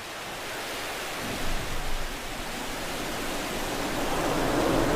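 Falcon 9's nine Merlin 1D engines just after liftoff: a dense, rushing rocket noise that fills in with deeper rumble about a second in and grows steadily louder, with a couple of brief surges near the second-and-a-half mark.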